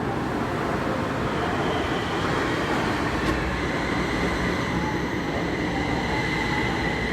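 Kaohsiung MRT metro train pulling into the station: steady running rumble with a thin high whine that comes in about two seconds in and holds.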